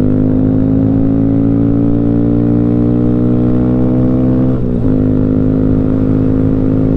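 Honda Grom's single-cylinder four-stroke engine running under way, its pitch rising slowly as the bike gains speed. About four and a half seconds in the pitch dips briefly, then holds steady.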